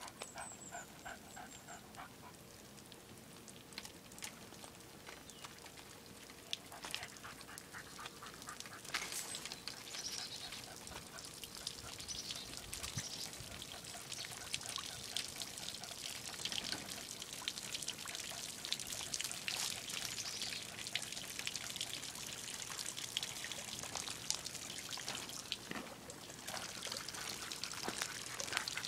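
Water trickling and pouring, a steady spattering with many small splashes that grows slightly louder after the first several seconds, with a few short high bird chirps near the start.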